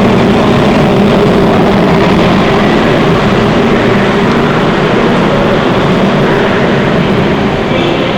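Subway train running through an underground station: a loud, steady rumble of wheels and motors with a low hum in it, easing a little near the end.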